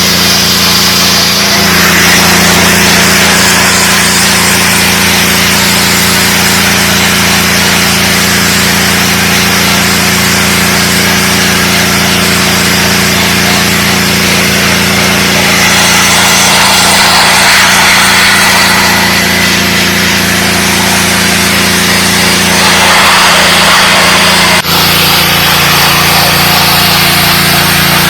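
DeWalt 3600 psi gas pressure washer running steadily: the engine's hum under the hiss of the high-pressure water spray. There is one brief break in the sound about three-quarters of the way through.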